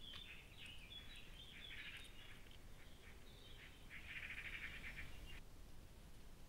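Faint birdsong: short scattered chirps and phrases, then a longer rapid trill near the end that cuts off abruptly.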